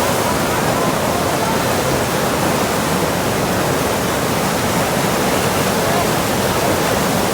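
Whitewater rapids of an artificial rafting channel rushing steadily: a loud, even wash of water.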